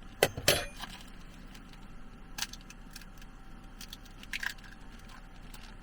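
An egg being cracked: two sharp taps of the shell against a hard edge near the start, then a few quieter clicks and small handling sounds as the shell is broken open, over a faint steady hum.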